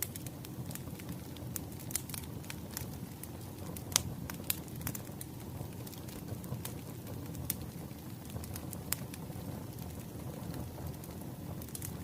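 Wood fire crackling: irregular sharp pops and snaps over a low steady rumble, with one louder pop about four seconds in.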